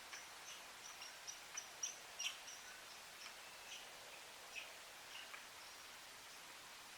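Faint outdoor ambience with a run of quiet high chirps, about three a second, and two sharper ticks a little after two seconds in; the chirping dies away after about four seconds.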